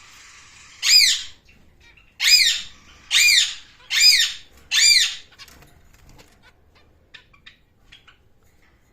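Pet bird giving five loud calls about a second apart, each about half a second long and rising then falling in pitch.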